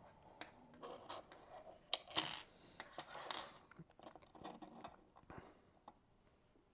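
3D-printed plastic lock parts being handled and fitted together: faint scattered clicks and scraping, with a sharper click and a short scrape about two seconds in.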